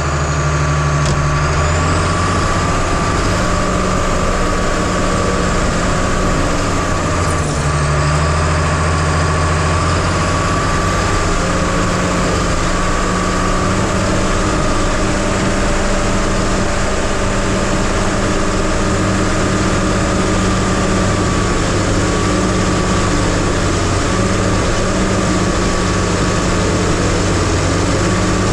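Diesel engine of an 850 crawler dozer running hard while pushing dirt, loud and steady. Its engine note shifts a couple of times in the first ten seconds, then holds, with a steady whine over it.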